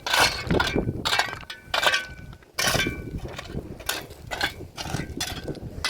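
Dishes and pots clinking and scraping against each other as they are washed by hand, a string of irregular knocks, some ringing briefly.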